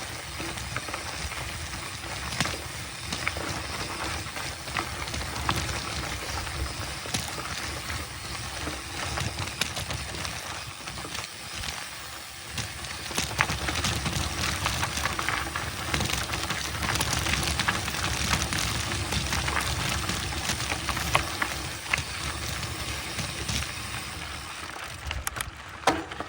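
Mountain bike riding over a dirt trail: a steady rumble of tyres on rough ground, with many sharp clicks and rattles from the bike over bumps.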